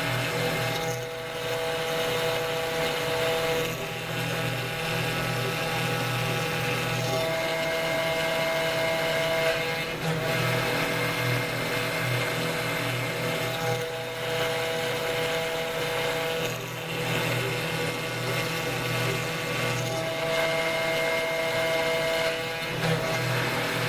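CNC router spindle running while milling acrylic resin: a steady machine whine with several held tones that switch pitch every few seconds, with brief dips in level in between.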